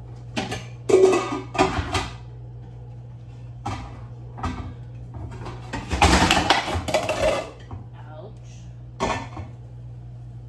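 Metal pots and pans being handled and set down, a series of clanks and clatters with a longer rattling stretch past the middle, over a steady low hum.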